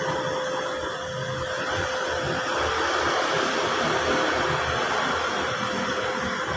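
Steady whooshing of a small motor-driven air device, with a constant faint hum under it.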